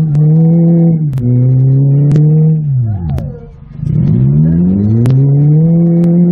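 Toyota Matrix's four-cylinder engine revved hard and held at high rpm, heard from inside the stripped cabin; the revs drop away about three seconds in, then climb straight back up. A few sharp knocks are scattered through it.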